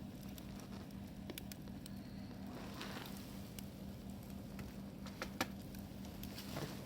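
Campfire burning, with scattered sharp crackles and pops over a steady hiss.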